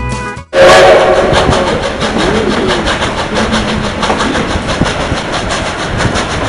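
Country steel-guitar music cuts off half a second in. Then a narrow-gauge coal-fired steam train runs loudly, with a fast, even clatter of about five beats a second.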